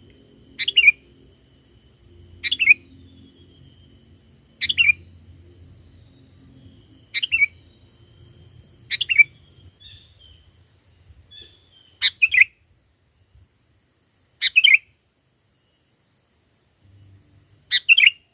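Sooty-headed bulbul (kutilang) singing short, bright phrases of quick notes that fall in pitch, repeated eight times, every two to three seconds. This is the lively lure song used to call in wild bulbuls.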